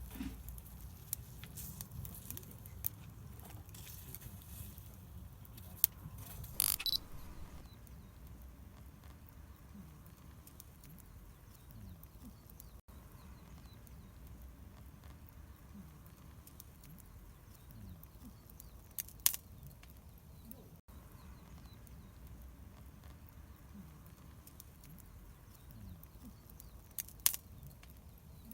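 Scattered sharp clicks and taps over a low, steady background rumble, with a short cluster of louder clicks about seven seconds in.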